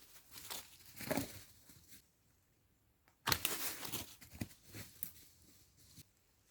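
Crinkling and crunching handling noises in two irregular bursts: one about a second in, and a louder, longer one starting about three seconds in.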